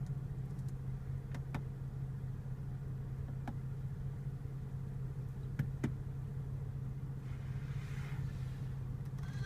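BMW 435i's turbocharged inline-six idling, a steady low hum heard from inside the cabin, with a few faint clicks from the cabin controls.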